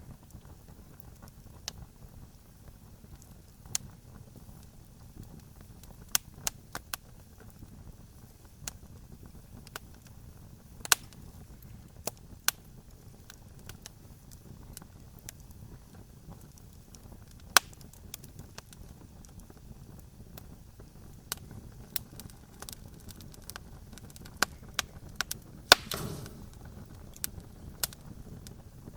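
Campfire crackling: irregular sharp pops and snaps over a low steady rumble, with a quick cluster of louder pops near the end.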